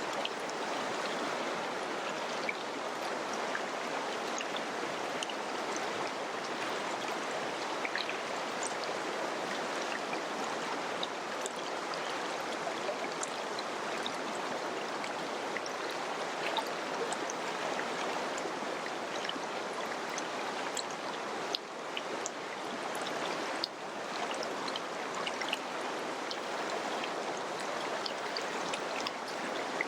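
A river running over rocks: a steady, even rush of water, flecked with small splashes and droplet ticks. The sound dips briefly twice about two-thirds of the way through.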